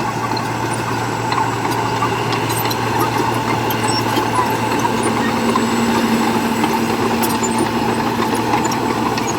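Heavy diesel engine of earthmoving machinery running steadily with a constant hum.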